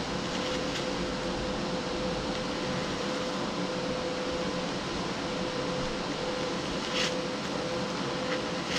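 Primeweld TIG 225X welder running: a steady hiss with a thin, even buzzing tone, and two short crackles, one about seven seconds in and one near the end.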